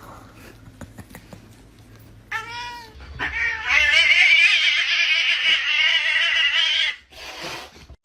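A cat meows once briefly, then gives one long, wavering yowl lasting about four seconds.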